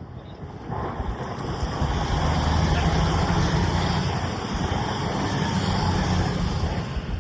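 Steam locomotive working a charter train on a climb, going by with a loud, steady noise that swells about a second in and stays up.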